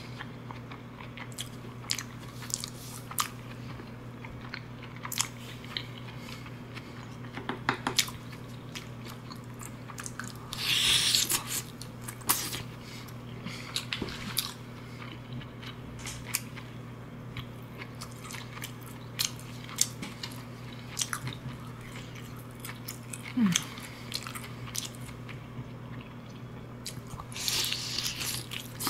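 Close-miked eating sounds of a person chewing seafood: wet mouth clicks and smacks scattered throughout, with two louder hissy bursts of about a second each, around eleven seconds in and near the end. A faint steady hum runs underneath.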